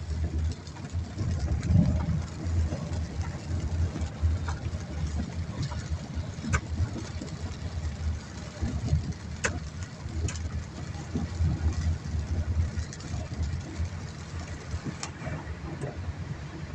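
Car driving, heard from inside the cabin: a steady low rumble of engine and road with scattered sharp taps.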